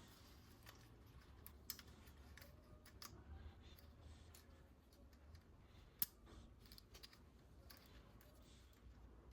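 Faint scattered clicks and light rustling of plastic toy parts and packaging being handled, with a sharper click about six seconds in.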